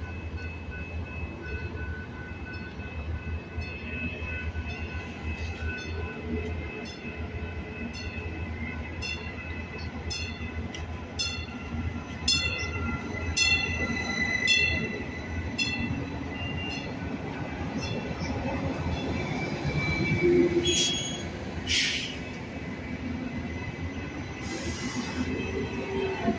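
Metrolink Arrow Stadler FLIRT diesel multiple unit pulling slowly into the station, with a low steady hum and the passing cars rumbling on the rails. Through the middle there is a run of sharp clicks at about two a second, and a high squeal from the wheels or brakes as it slows.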